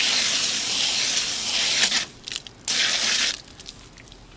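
Garden hose spray blasting water onto an air conditioner's coil fins, a steady hiss. About two seconds in the spray cuts out, comes back for a short burst a second later, then stops, which the owner puts down to a knot in the hose.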